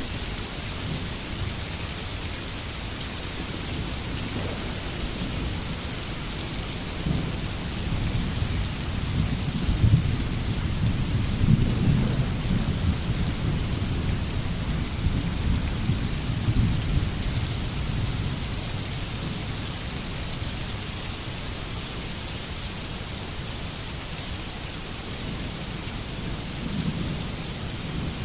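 Steady rain falling, an even hiss throughout, with a long low rumble of thunder that builds about a quarter of the way in, peaks near the middle and fades out, and a smaller rumble near the end.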